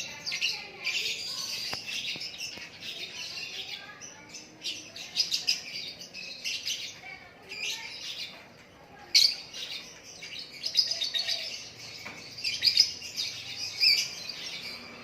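White-rumped shama (murai batu) singing a fast, varied song in phrases, with short pauses about four and eight seconds in.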